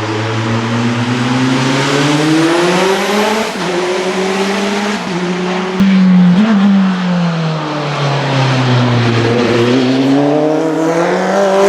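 Hillclimb race car engine under hard acceleration, its pitch climbing and dropping sharply at each gear change. Around the middle the pitch sinks as the car comes off the throttle, then it rises again through the gears near the end.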